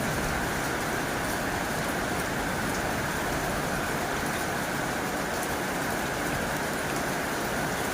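Heavy rain drumming steadily on a tin roof, a dense even patter with scattered faint drop ticks and no let-up.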